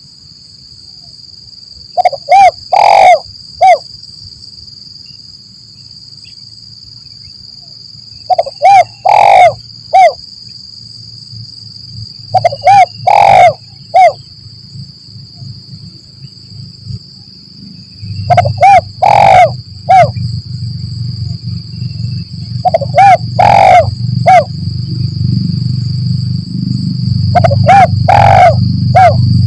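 Spotted dove (tekukur) cooing: six phrases of three or four low coos each, repeated every four to six seconds. A steady high-pitched whine runs underneath, and a low rumble grows louder about two-thirds of the way through.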